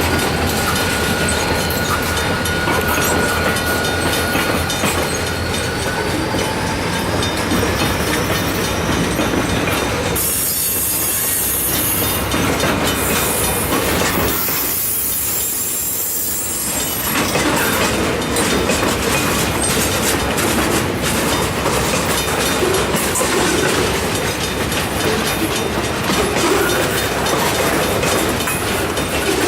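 Freight train cars rolling past, steel wheels clicking steadily over the rail joints.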